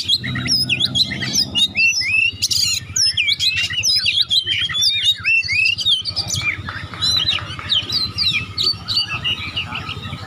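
Oriental magpie-robin (kacer) singing a fast, unbroken, varied song of quick rising and falling whistles and chirps, in the non-stop 'konslet' style used as a calling sound to set other magpie-robins singing.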